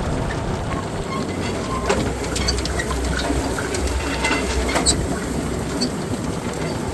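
A TAFE tractor running steadily with a rattling, clicking clatter of farm machinery over its low engine rumble.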